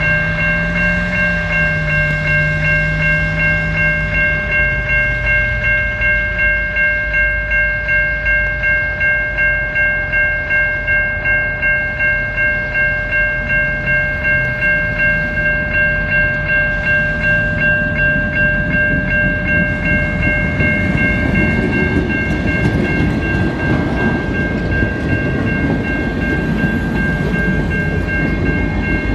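An Alaska Railroad train with a bell ringing steadily about twice a second. From about twenty seconds in, the train's low rumble and wheel noise on the rails grow louder as it comes through.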